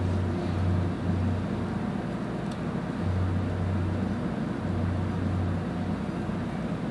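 A low mechanical hum over a steady rushing background noise. The deep hum drops in and out in stretches of a second or more.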